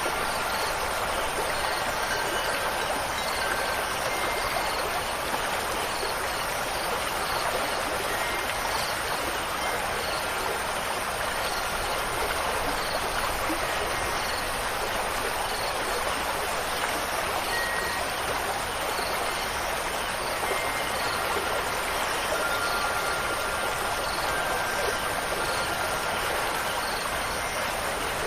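Steady rush of running water, with a few faint, brief wind-chime tones sounding now and then over it.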